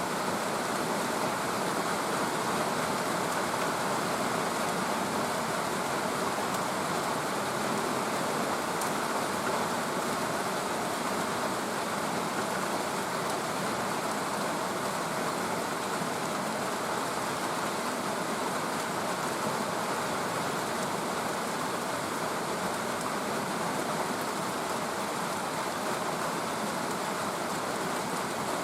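Steady rain falling, an even hiss of rainfall without a break.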